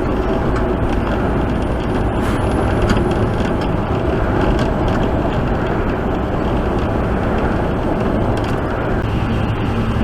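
Steady road noise inside a semi truck's cab while driving: the diesel engine running and the tyres on the road, even throughout, with a few faint ticks.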